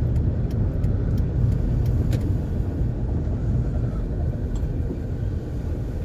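A van being driven, heard from inside the cab: a steady low rumble of engine and road noise with a few faint ticks.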